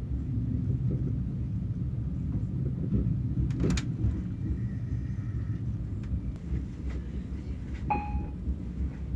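Allegro Pendolino electric train running, heard inside the passenger carriage: a steady low rumble, with one sharp clack about three and a half seconds in and a brief high tone near the end.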